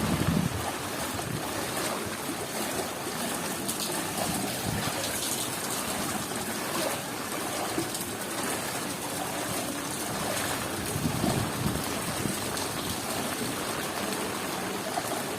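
Heavy monsoon rain falling steadily, with water running and trickling. A brief gust of wind buffets the microphone at the very start.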